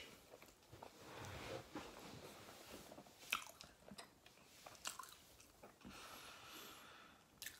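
Quiet closed-mouth chewing of a mouthful of food, with a few soft wet clicks and smacks.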